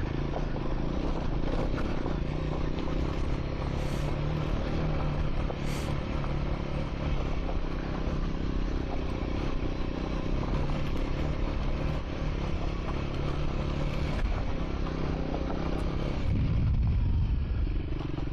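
Triumph Scrambler 400 X's single-cylinder engine running steadily while riding a gravel track, with loose stones clattering under the tyres. About three-quarters of the way in, the sound shifts to a heavier low rumble.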